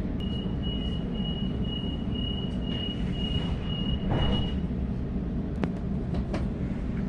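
Waratah train's door-closing warning beeping, a high, rapidly pulsing tone that lasts about four seconds, over the steady hum of the carriage. A few sharp clicks follow near the end.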